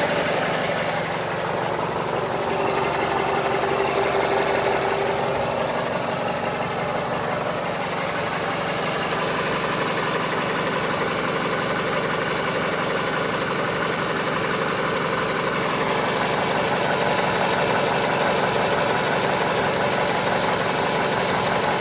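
Mazda CX-7 engine idling steadily, fully warmed up.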